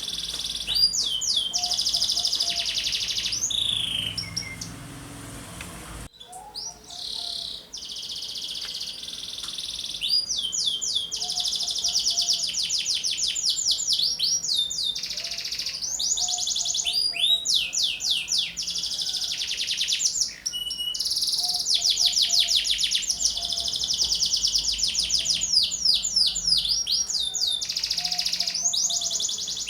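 Domestic canary singing in full song: long runs of rapid trills and fast sweeping whistles, with a brief quieter lull about five seconds in.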